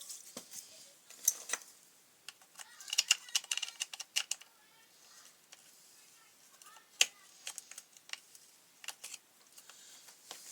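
Irregular light clicks and small clatters of hand tools and parts being handled on a grass trimmer during disassembly, in scattered clusters with short pauses between.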